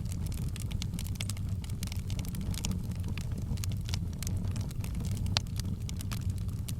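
Wood fire burning with a steady low rumble and frequent irregular crackles and pops, one sharper pop about five seconds in.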